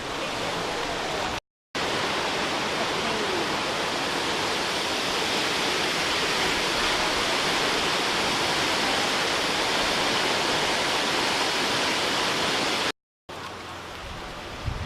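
Waterfall: a steady, unbroken rush of falling water, with two brief cuts to silence; after the second cut the rush continues more quietly.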